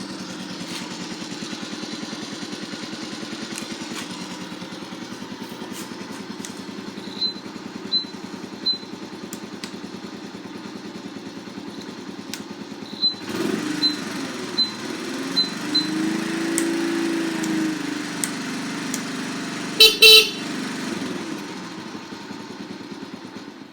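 1993 Honda Super Cub 50 Custom's small single-cylinder four-stroke engine idling steadily, then revved up and down from about 13 seconds in. Short high beeps come in two runs, and the horn sounds once briefly about 20 seconds in.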